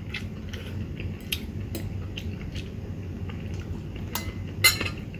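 Close-up chewing of a mouthful of noodles, with small wet clicks, and a metal fork and spoon scraping and clinking against a ceramic plate as the noodles are stirred; the loudest clink comes near the end.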